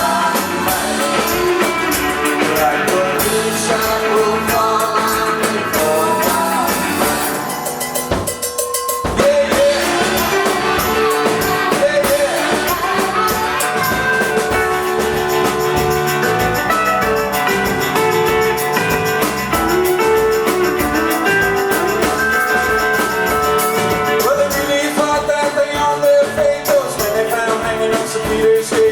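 Live rock band playing an instrumental passage of a song, drum kit and amplified instruments, with the fuller sound dropping out briefly about eight seconds in while the drums carry on.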